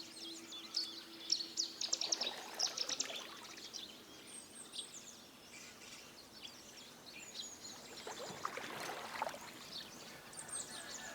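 Small birds singing and chirping, many quick high notes overlapping, with a brief rushing sound about eight seconds in. A steady low hum stops about two seconds in.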